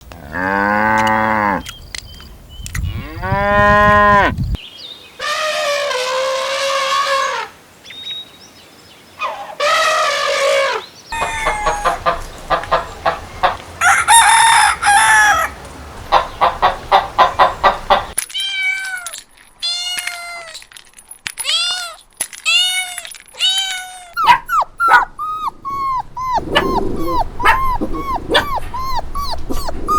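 A string of different animal calls in separate segments, one after another: long pitched cries in the first half, then a run of short, quickly repeated calls from a little past the middle.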